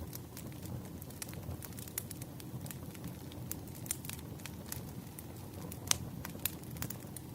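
Wood fire crackling: a steady low rush with frequent sharp snaps and pops, two louder pops near the end.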